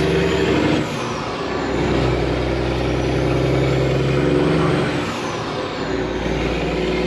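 Semi truck's diesel engine running at low speed. Its note drops briefly about a second in and again about five seconds in, and a faint high whine rises and falls.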